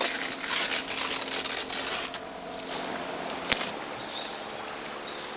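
Rustling and crackling of tent fabric and mosquito netting being handled. It quiets after about two seconds, and a single sharp click follows about a second and a half later.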